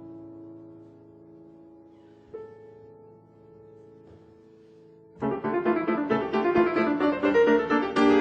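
Piano playing: two soft notes struck singly and left to ring, then, about five seconds in, a louder rapid run of many quick notes.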